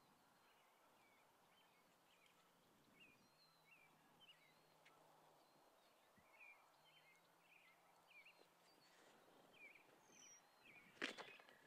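Faint outdoor ambience with small birds chirping in quick, repeated short notes throughout, and one sharp click about eleven seconds in.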